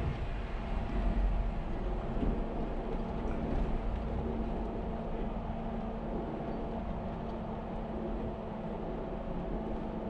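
Jeep engine running steadily as the vehicle drives, a continuous low rumble with a steady hum.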